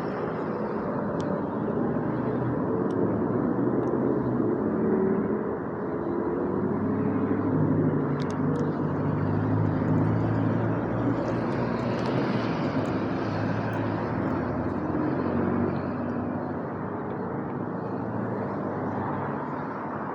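Steady vehicle noise with a faint shifting hum, a little louder in the middle.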